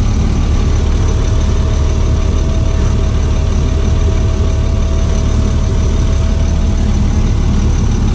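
Box truck's engine running steadily, a low rumble with a thin, even whine over it.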